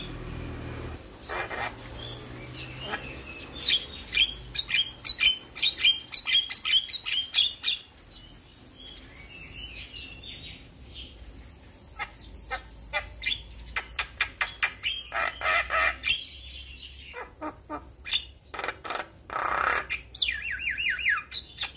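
Javan myna singing in full voice: rapid bursts of harsh chattering and squawking notes mixed with short chirps. There is a quieter lull about a third of the way in, and a quick run of falling rattling notes near the end.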